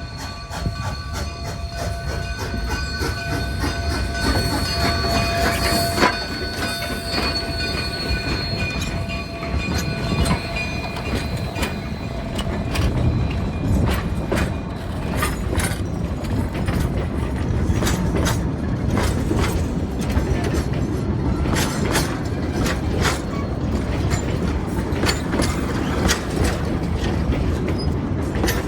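Narrow-gauge railroad cars rolling past with a low rumble and a steady run of sharp clicks from the wheels over rail joints. High, held wheel squeal rings over it through the first half, then fades.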